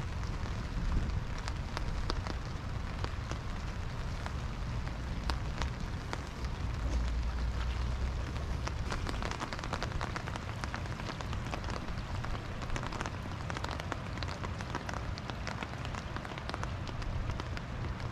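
Steady rain falling, with many small, close drop ticks over an even hiss and a low rumble underneath.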